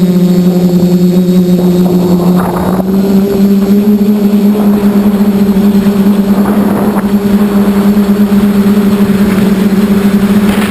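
QAV540G quadcopter's motors and propellers droning loudly at a nearly constant pitch, with short rushes of wind noise.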